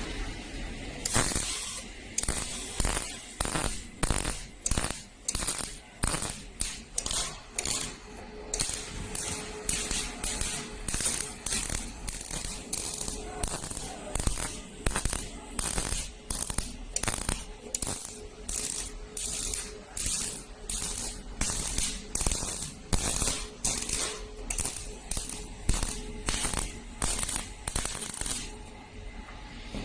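CO2 gas-shielded MIG welding arc crackling and hissing in short bursts, one after another at about one or two a second, stopping about a second before the end.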